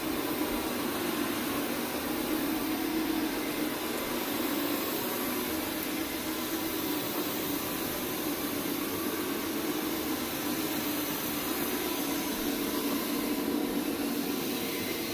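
Counter-rotating brush carpet scrubber running steadily, its motor humming as the brushes work an encapsulating treatment into the carpet pile.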